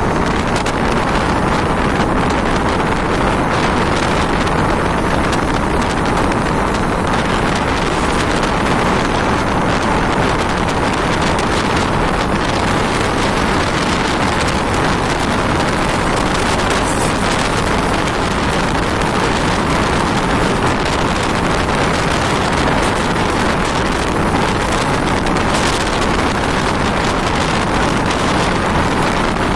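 Mumbai suburban local train running at speed: a steady, loud rush of wheels on track mixed with wind on the microphone, heard from on board.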